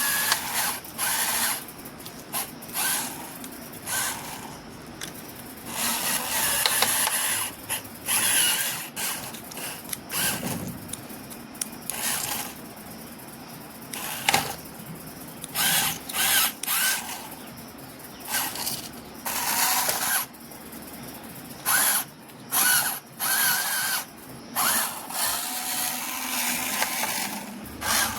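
Small electric motors of radio-controlled toy vehicles whining in short bursts as the throttle is pulsed on and off, with many starts and stops and brief quiet gaps between.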